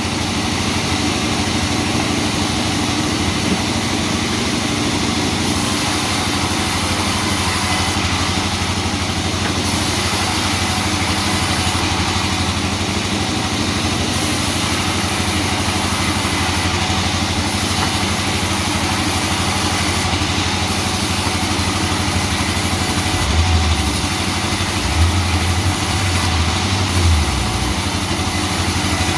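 Sawmill machinery running with a steady, engine-like drone, with a few stronger low rumbles late on.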